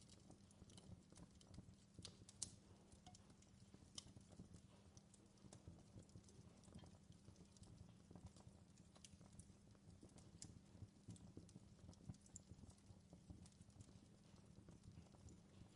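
Wood campfire crackling faintly: irregular small snaps and pops over a low steady rumble, with a sharper pop about two and a half seconds in and another about four seconds in.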